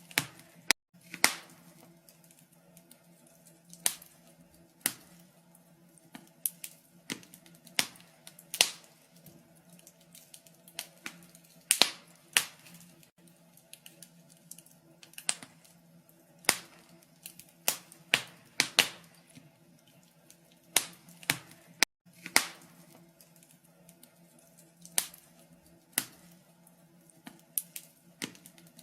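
Wood fire crackling in a fireplace: irregular sharp pops and snaps, often a second or less apart and some much louder than others, over a faint low hum.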